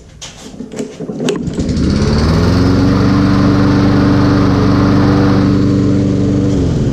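Kohler single-cylinder engine of a Toro push mower starting on a try after a few clicks. It catches about a second and a half in, revs up to a steady run, then is shut off and winds down near the end. It now starts and runs after its plugged carburetor was cleaned and a bad ignition coil replaced.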